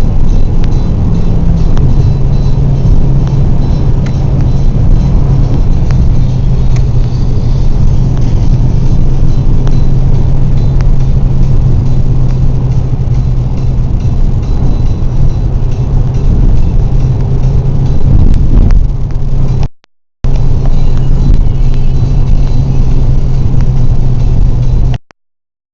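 Opel Vectra's 2.0 16-valve X20XEV four-cylinder engine running at steady revs under loud road noise, with a steady drone that drops slightly in pitch about a second and a half in and then holds level. The sound cuts out abruptly for a moment about three-quarters of the way through.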